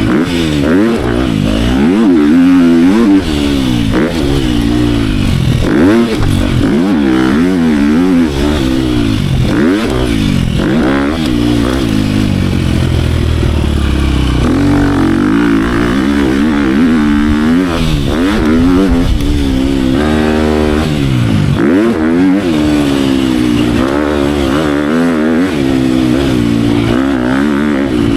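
Dirt bike engine being ridden hard, its pitch rising and falling over and over as the throttle is opened and rolled off and the gears change.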